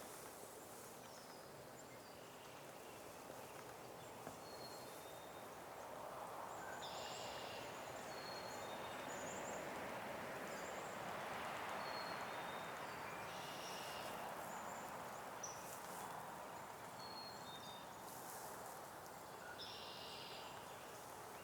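Spring woodland ambience: many short, high bird chirps and a few brief fuller calls scattered over a faint, steady background rush that swells in the middle.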